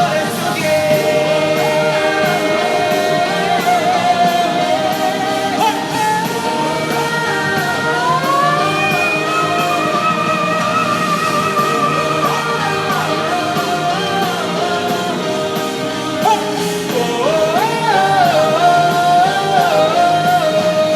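Live rock band playing, with electric guitar under a male lead singer holding long, wordless high notes with vibrato; one note climbs higher about eight seconds in and is held for several seconds.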